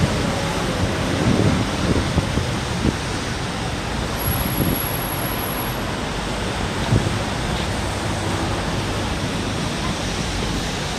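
Steady outdoor noise of wind buffeting a phone's microphone, mixed with city street traffic, with a few low bumps.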